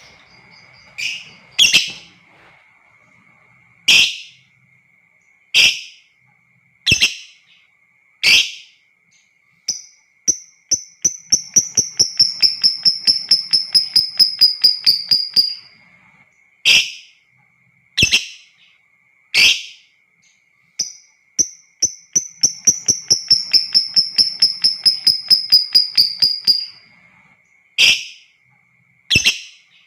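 Lovebird calling: sharp single shrieks every second or so, twice breaking into a long, rapid chattering trill (the 'ngekek panjang') that lasts about five seconds and sags slightly in pitch. A faint steady high tone runs underneath.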